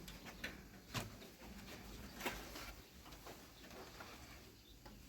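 Scattered light clicks and knocks, one every second or so, over a faint background hiss.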